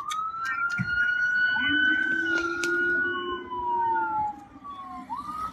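An emergency vehicle siren starting up suddenly and wailing, its pitch sliding slowly down and rising again near the end, with a second, lower tone sounding for a couple of seconds in the middle.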